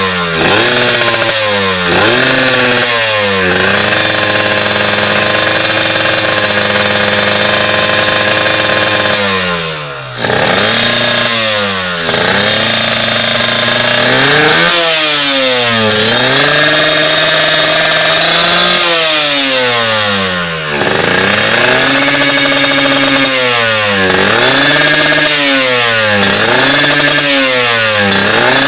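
Kawasaki Ninja motorcycle engine revved through a D2T big-volume aftermarket exhaust: repeated throttle blips that rise and fall, with two longer held revs, in the first third and again in the middle, and a quick run of short blips near the end.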